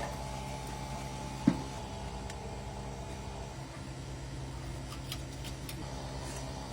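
Steady hum of a small motor, with one sharp click about one and a half seconds in.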